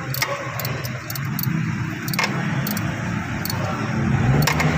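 Mitsubishi Mirage G4's engine running steadily, with scattered sharp clicks over it.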